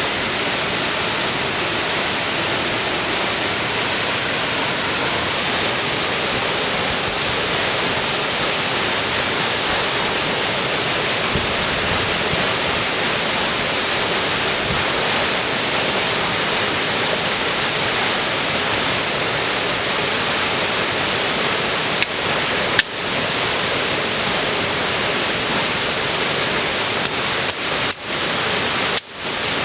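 Waterfall rushing: a steady, dense hiss of falling water, interrupted by a few brief dropouts near the end.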